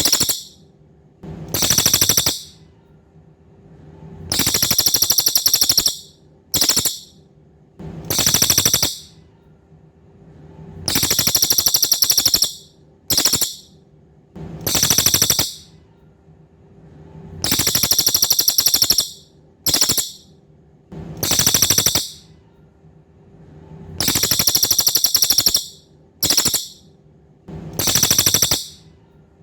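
Cililin singing: loud, very high, buzzy rapid trills in a repeating pattern of a long trill, a short burst and a medium trill, about every six and a half seconds. A faint steady hum lies underneath.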